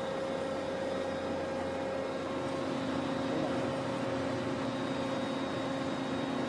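A machine running steadily with an even hum, a second, lower tone joining about two and a half seconds in.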